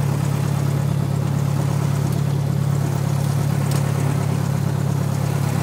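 Single-engine light airplane's engine running steadily, a constant low drone with no change in pitch or level.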